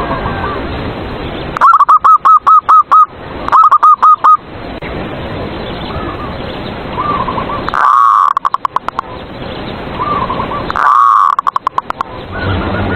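Zebra doves (perkutut) cooing. A near bird gives four phrases of rapid, stuttering coos, loud enough to clip, and fainter doves coo between them.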